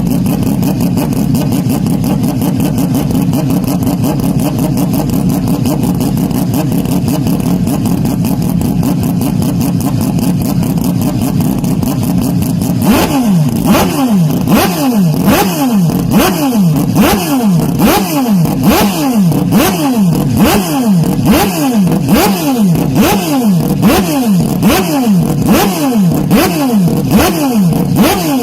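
Hyundai Elantra N's turbocharged four-cylinder engine and exhaust, boosted and distorted. It holds a steady high engine note for roughly the first half, then from about halfway it is revved in quick blips over and over, more than once a second, with sharp cracks from the exhaust.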